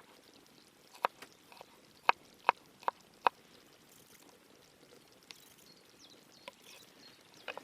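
Knife blade striking a cutting board while slicing garlic cloves: about six sharp, separate chops in the first three and a half seconds, then a few fainter taps.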